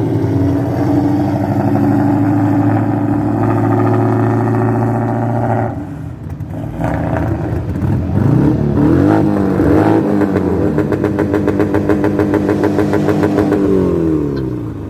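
Modified car engine revved and held at high RPM, dipping briefly, then revved up again and held against a launch limiter with a rapid, rhythmic crackle of pops, typical of a 2-step launch control, before the revs fall away near the end.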